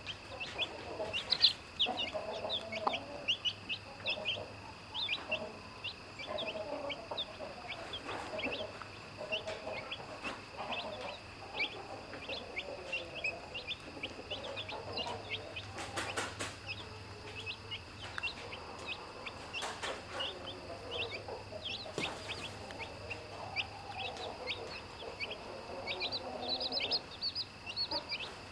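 Young chicks peeping constantly in short high chirps, with a mother hen's low clucking coming and going.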